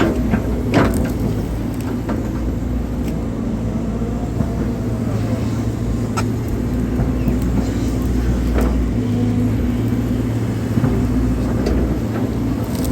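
Hydraulic excavator's diesel engine running steadily, with a hydraulic whine that rises and falls briefly near the middle and a few sharp knocks from the working machine.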